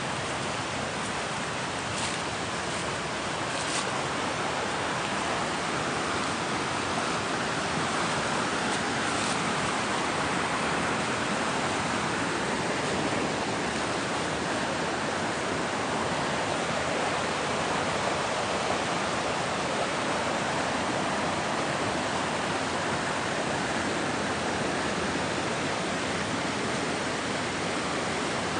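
Steady rushing of a rain-swollen river, running high after recent rain.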